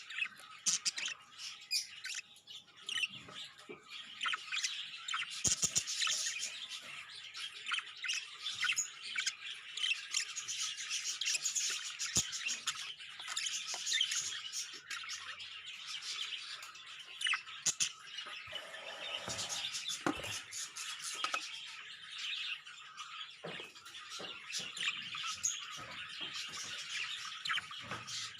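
Budgerigars chirping and squawking in quick, continuous chatter.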